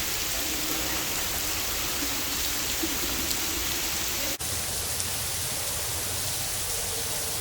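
Steady hiss of artificial rain pouring down continuously inside a rain-room art installation. The sound cuts out for an instant about four seconds in.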